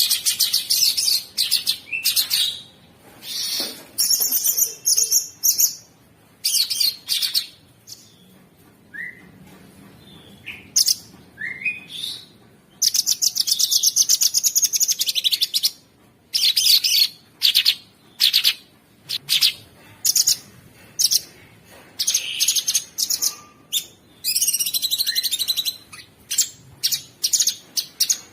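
Cucak sungkok songbird singing in rough, rapid rattling bursts, fast high-pitched trills broken by short pauses, the longest running for about two and a half seconds just past the middle, with a few short rising whistles in between.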